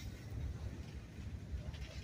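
Autorack freight cars rolling slowly past: a low, uneven rumble of steel wheels on the rails.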